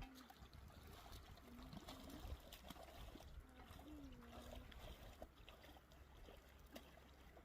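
Near silence: a faint, steady rush of a flowing river, with scattered small clicks and a few short faint calls.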